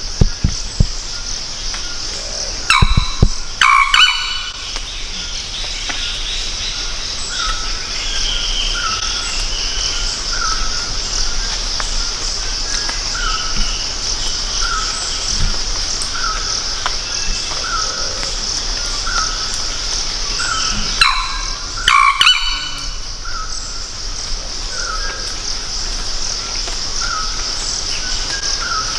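Rainforest chorus: a steady high insect buzz, with a bird repeating a short note every second or two. Loud harsh bird calls break in twice, a few seconds in and again about two-thirds of the way through.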